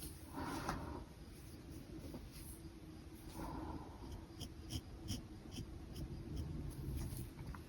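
Pen scratching across paper in short sketching strokes, with small ticks as the nib touches down and lifts.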